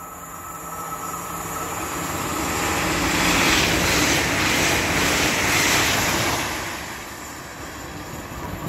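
Passenger train running past a station platform: wheel and track noise builds, is loudest midway, then fades away as the train goes by.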